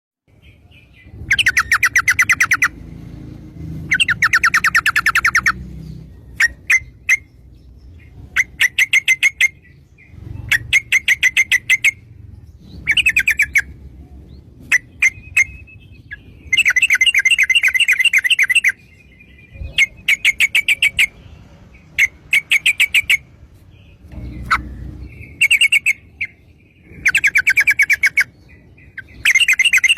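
Yellow-vented bulbul (trucuk) singing in fast 'ropel' bursts. Each burst is a rapid string of repeated notes lasting one to two seconds, separated by short pauses, and the song runs on through the whole stretch.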